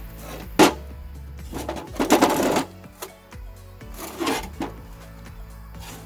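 Background music under workshop handling noise during a hydraulic cylinder rebuild: a sharp knock about half a second in, then two short rattling scrapes, about two seconds and about four seconds in.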